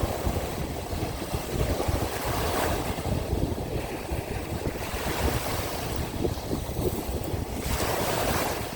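Sea waves washing onto the shore, with wind buffeting the microphone in a low, uneven rumble. The surf swells louder about two and a half seconds in and again near the end.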